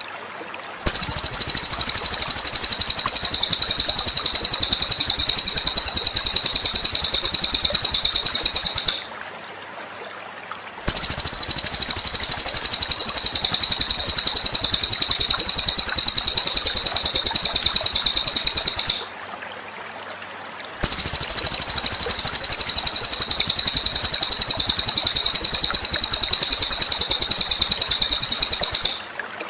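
Recorded songbird playing a very fast, even, high-pitched trill, repeated in three identical bursts of about eight seconds with two-second pauses between them, as a looped training recording for birds to copy.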